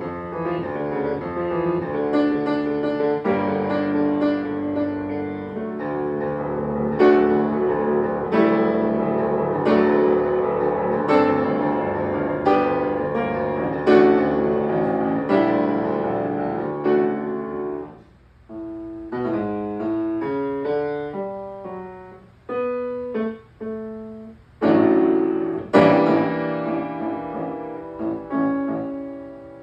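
Solo piano playing: struck, ringing chords for the first two-thirds, then a brief lull and a passage of short detached notes, broken by two loud chord strikes near the end.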